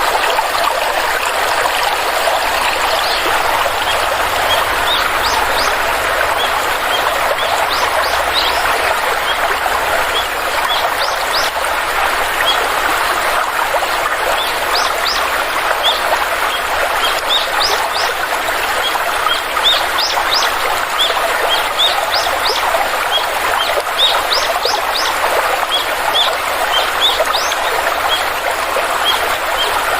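A stream flowing steadily, with small birds chirping over it: many short high chirps, often in quick runs, from a few seconds in.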